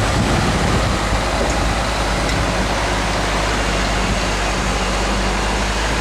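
Jet aircraft engines, a loud steady rushing noise with a low hum underneath.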